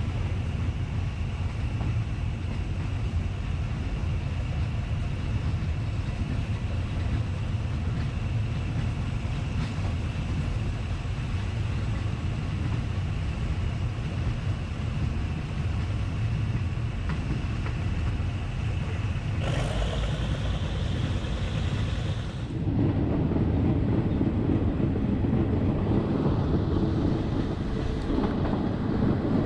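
Moving passenger train running along the track: a steady low rumble of wheels on rails mixed with wind noise, with a faint steady whine. The running noise grows louder about three-quarters of the way through.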